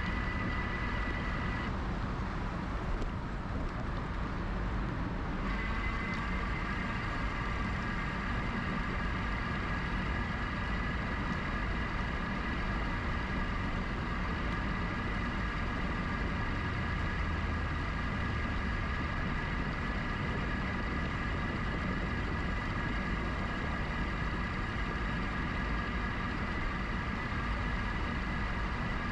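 Riding a GoCycle GX electric bike: a steady rush of wind and tyre noise with a thin, high motor whine that cuts out about two seconds in and comes back at a slightly changed pitch a few seconds later.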